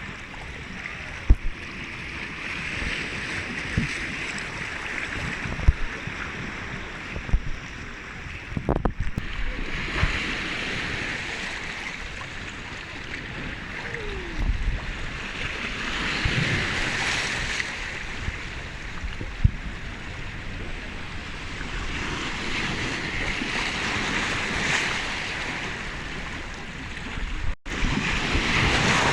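Sea waves washing in, the hiss of surf swelling and falling back every several seconds, with wind on the microphone. A few sharp low thumps, and a brief break in the sound near the end.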